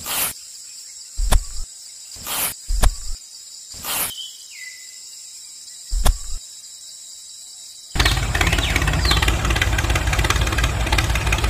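Repeated brief whooshes over steady high electronic tones, then about eight seconds in a motor starts abruptly and runs steadily with a fast low pulsing.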